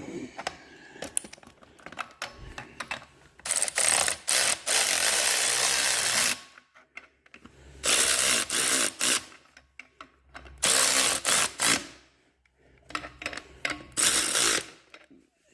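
A power tool run in four bursts of one to three seconds each, with short clicks and knocks of tool work between them.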